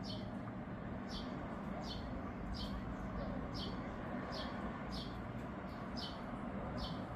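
A bird repeating a short, high, falling chirp about once every three quarters of a second, over a steady background hiss.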